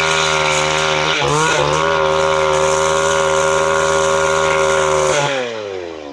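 Two-stroke chainsaw running at full throttle. Its revs dip briefly and recover about a second in. Near the end the throttle is released and the engine winds down toward idle.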